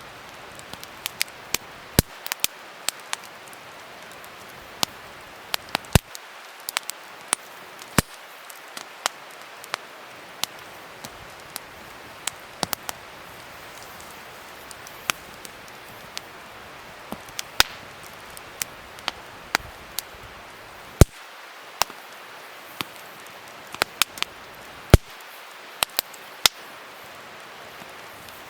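Wood fire crackling: a steady hiss of burning broken by irregular sharp pops, a few of them much louder than the rest.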